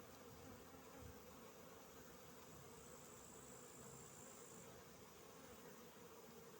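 Faint steady hum of many honeybees flying out from their hives during the main nectar flow. A faint high-pitched whine sits over it for about two seconds in the middle.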